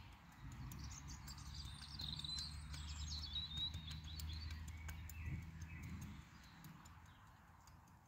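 A songbird singing a warbling, chirping phrase that fades out about halfway through. Under it runs a low steady hum that stops near the end, along with faint scratches of a hand trowel drawing through loose soil.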